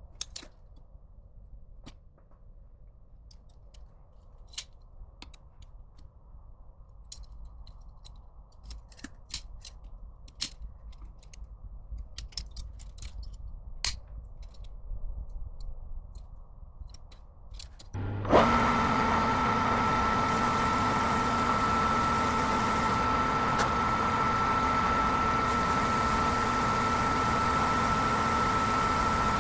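Scattered light clicks and taps over a low hum, then about 18 seconds in a loud, steady mechanical running sound starts abruptly, with a constant high whine.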